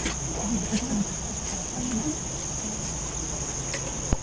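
An insect trilling, one steady high-pitched tone that doesn't break, over a faint murmur of distant voices.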